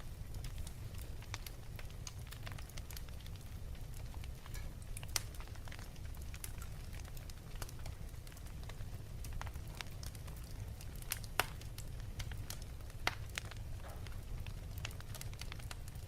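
Wood fire crackling in a fireplace: a steady low rumble of flames with frequent small sharp pops and a few louder snaps.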